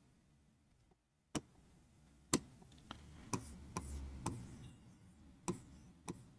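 A series of sharp, irregular clicks and taps, about eight spread over several seconds, with faint low handling noise between them.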